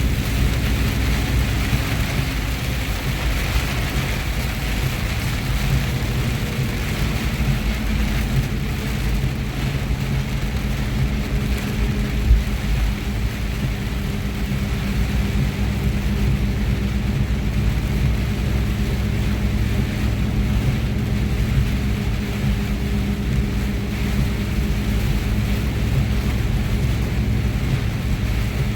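A truck's engine drones steadily under road noise, heard from inside the cab while driving in heavy rain. There is a single short knock about twelve seconds in.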